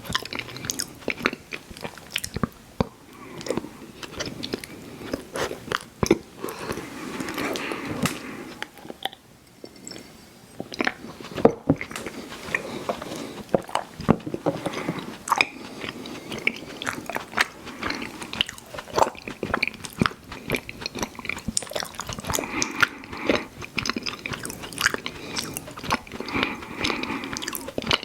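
A person biting and chewing chewy fruit candies, Airheads Bites and Tootsie Fruit Chews, with many wet smacks and sharp mouth clicks coming irregularly.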